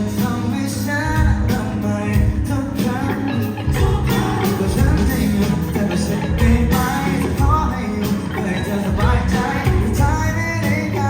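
Thai indie rock band playing live, with a singer over guitars and a steady drum beat, loud as heard from the audience.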